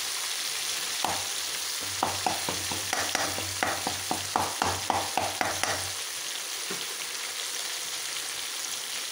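Brinjals, shallots, garlic and tomato sizzling in hot oil in a kadai, with a spatula scraping and knocking against the pan about two or three times a second as they are stirred. The stirring stops about six seconds in, leaving the sizzle alone.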